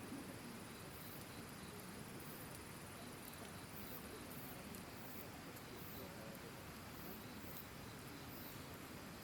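Campfire burning quietly with faint, sparse crackles over the steady hiss of a flowing stream, with an insect's short high chirps repeating about once a second.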